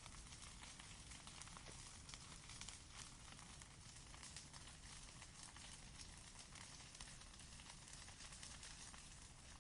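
Campfire crackling quietly: many small irregular pops and snaps over a steady soft hiss.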